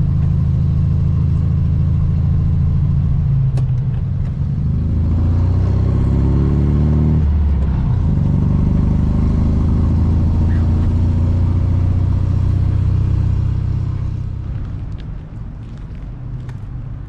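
1967 Volkswagen Beetle's air-cooled flat-four engine pulling under acceleration. Its note rises for a few seconds, drops sharply at a gear change about halfway through, then runs steadily before easing off and getting quieter near the end.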